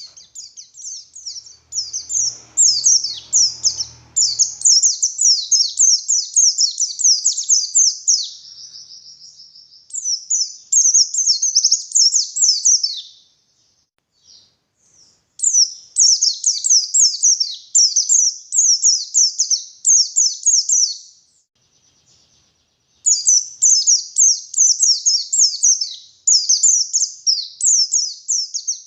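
White-eye (pleci) singing in long runs of rapid, high twittering notes, each run lasting several seconds. The song breaks off twice, for about two seconds each time: once a little before the middle and once about three-quarters of the way through.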